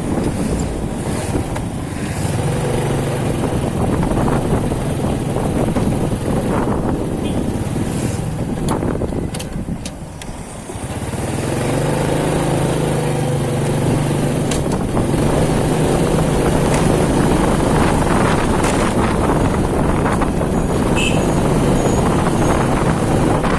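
Motorcycle engine running on the move over a rush of road noise. The sound drops briefly near the middle, then the engine pulls strongly again.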